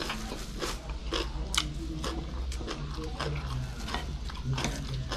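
Close-up chewing and smacking of a mouthful of raw vegetables and rice, with sharp, crunchy, wet clicks about two or three times a second.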